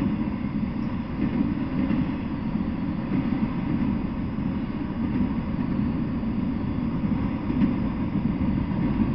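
Freight train of autorack cars rolling past: a steady rumble of wheels on the rails.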